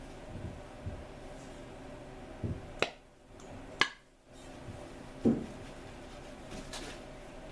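Sharp metal clinks from valve parts and tools being handled during valve lapping: two clinks about a second apart, then a duller knock, over a faint steady hum.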